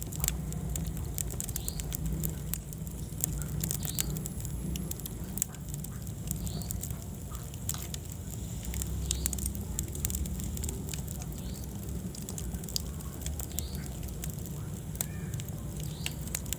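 Wood fire burning in a fireplace: irregular sharp crackles and pops over a steady low rumble of the flames, with a few faint short squeaks or whistles.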